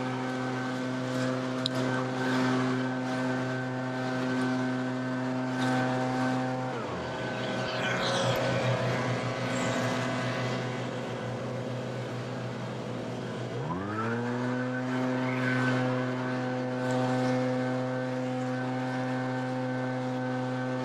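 Two-stroke backpack leaf blower running at full throttle. It is let off to idle about seven seconds in, then throttled back up about seven seconds later and held steady.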